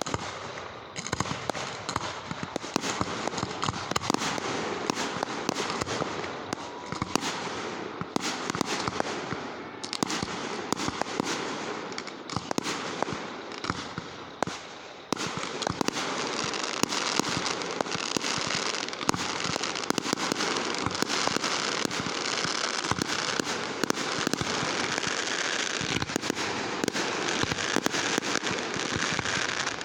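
Fireworks going off in a dense, continuous crackle of rapid bangs, growing louder and thicker about halfway through.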